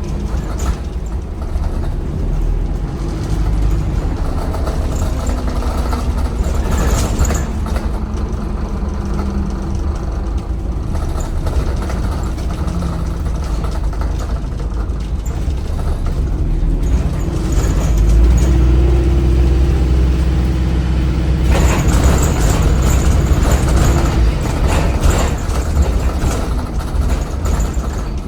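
Alexander Dennis Enviro 400MMC hybrid double-decker bus on the move, heard from on board: its Cummins ISBe 4.5-litre diesel runs with a steady low rumble, and a whine drifts up and down in pitch. About two-thirds of the way through the sound turns brighter and noisier.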